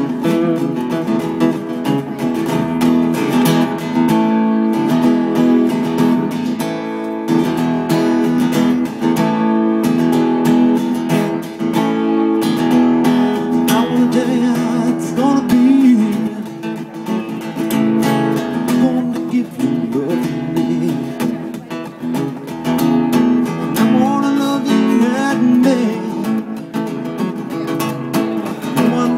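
Live solo music: a strummed acoustic guitar playing an instrumental passage, with a few sliding notes around the middle and near the end.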